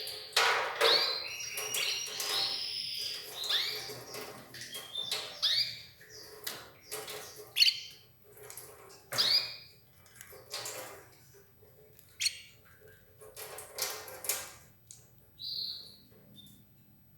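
Red ivory canary giving short chirps and call notes mixed with sharp clicks. The calls are dense in the first half and grow sparser later.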